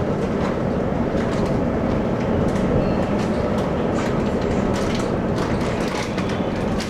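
Running sound heard from inside a Taiwan Railways local express train: a steady low rumble of wheels on rail, with scattered clicks and knocks from the track.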